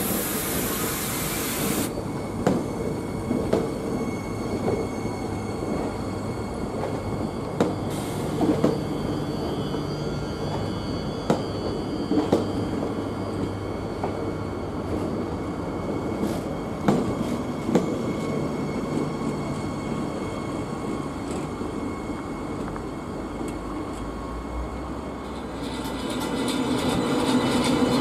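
Double-deck regional passenger train rolling slowly out over the station trackwork: a steady rumble with irregular sharp knocks as the wheels cross rail joints and points, and a faint high wheel squeal. Near the end it gives way to the louder, deeper rumble of a TGV high-speed train.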